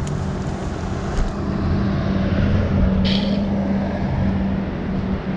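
Car engine and road noise heard from inside the cabin while driving: a steady low hum, with a short hiss about three seconds in.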